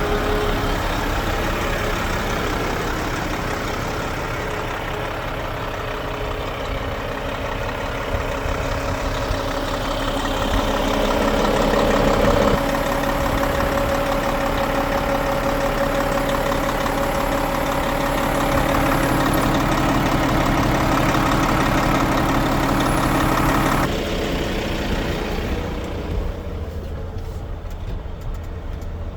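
Volvo FM 430 truck's 11-litre six-cylinder diesel engine idling steadily. The sound changes abruptly twice, about twelve seconds in and again near the twenty-four-second mark.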